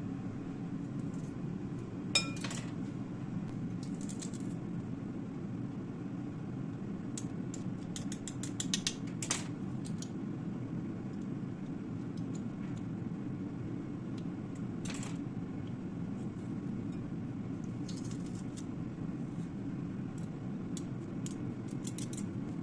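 Light clinks and clatter of kitchen utensils and dishes at irregular moments, with a cluster about eight to nine seconds in, over a steady low fan hum.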